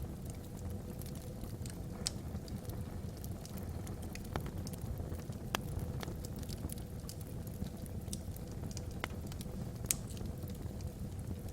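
Log fire burning in a fireplace, crackling with scattered sharp pops over a steady low rush; the loudest pop comes near the end.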